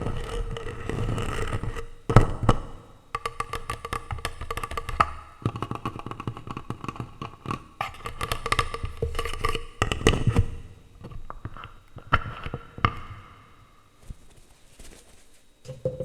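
Plastic utensils tapping, clicking and scraping directly on a microphone, in quick rattling runs broken by a few sharper knocks, thinning out over the last two seconds.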